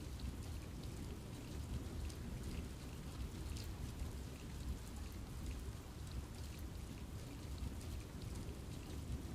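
Steady rain falling on forest foliage, with scattered individual drops ticking against a low, even rumble.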